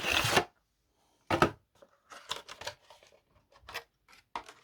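A boxed Dapol model railway wagon being taken out of its packaging: a series of short, irregular rustles and scrapes of cardboard and plastic, the loudest right at the start.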